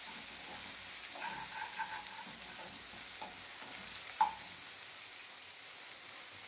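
Chopped ginger, garlic and green chillies sizzling in coconut oil in a nonstick frying pan while a spatula stirs and scrapes them around, with one short knock about four seconds in.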